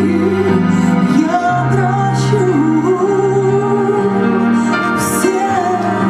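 A woman singing a song with instrumental accompaniment, her voice holding long notes over steady bass notes.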